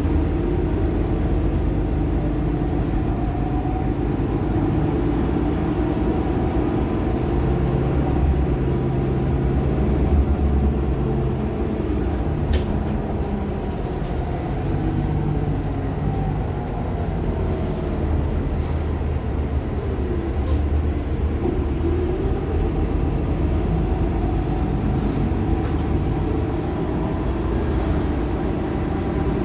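Nova LFS Artic hybrid bus under way, with its Cummins ISL9 diesel and Allison H50 EP hybrid drive making a steady low rumble. A whine rises and falls as the bus speeds up and slows. A faint high squeal comes and goes, a noise heard on several Nova artics.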